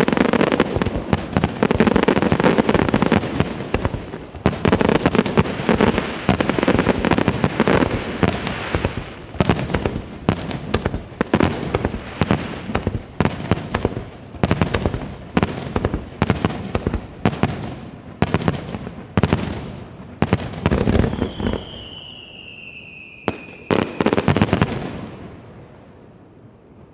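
Fireworks display: a dense barrage of bursts and crackle, thinning into a run of sharp bangs about two a second. Near the end comes a falling whistle and a last few bangs, then the sound dies away.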